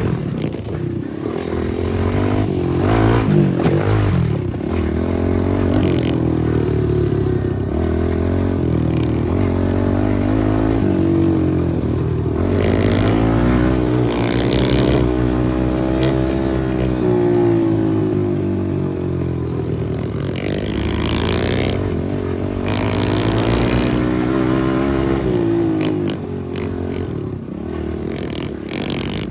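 Small pit bike engine revving up and falling back again and again as the bike is ridden, with short bursts of noise now and then.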